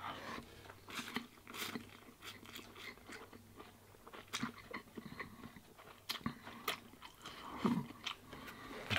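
A man chewing a large mouthful of instant ramen noodles and slurping them in, with many small wet mouth clicks and smacks. A brief low vocal sound comes near the end.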